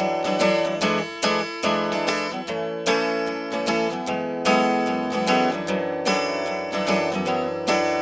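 Acoustic guitar strummed in a steady rhythm, playing an instrumental break of a song with no singing.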